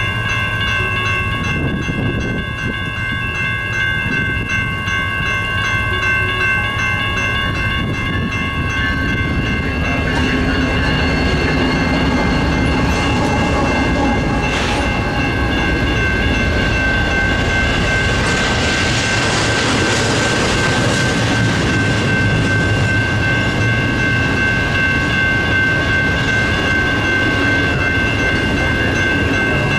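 Long Union Pacific intermodal freight train rolling past, its wheels clattering steadily over the rail joints under several steady ringing tones. The rumble swells about ten seconds in and is loudest near the middle.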